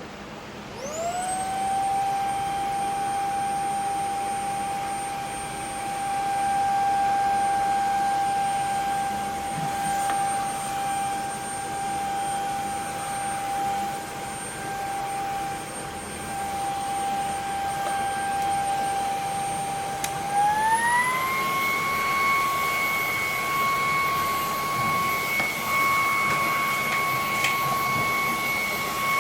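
ILIFE G80 cordless stick vacuum's motor spinning up with a rising whine just after the start and running at a steady pitch. About twenty seconds in, the whine climbs to a higher steady pitch as the vacuum steps up to a higher power setting.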